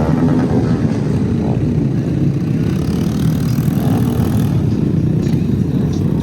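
Small motorcycle and scooter engines running, a steady low rumble.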